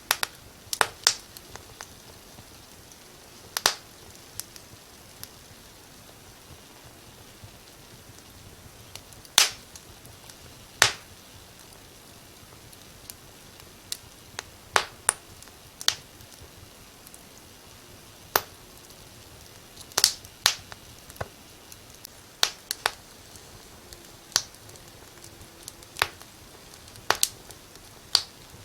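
Wood fire in a fireplace crackling: sharp, irregular pops and snaps, a few loud, over a faint steady hiss.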